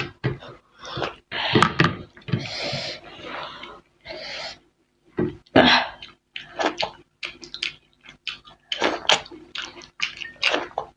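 Close-up eating sounds of people wolfing down biryani: wet chewing, mouth smacks and the crackle of handling the rice, in quick irregular bursts with short pauses.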